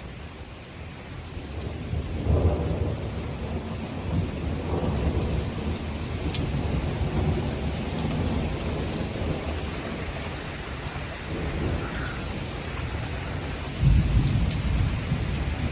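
Thunder rumbling in long rolls over steady rain, building about two seconds in and swelling again near the end, following a burst of nearby lightning strikes.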